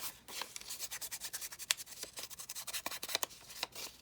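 Paper being rubbed by hand, a rapid run of short scratchy strokes, several a second.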